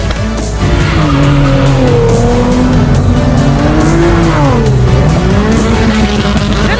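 Car engine revving up and down while the tyres squeal, as in a burnout or donut, with music underneath.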